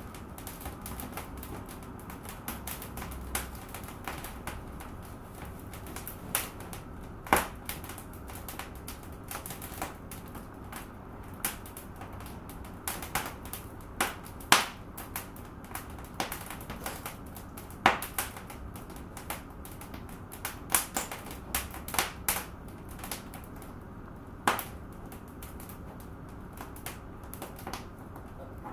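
Wood fire burning in a fireplace, crackling with irregular small clicks and several louder sharp pops over a steady low hiss.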